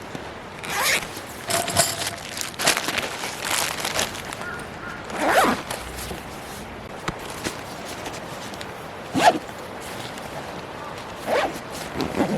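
A zipper pulled in a series of short strokes, several in the first few seconds and a few more spaced out later.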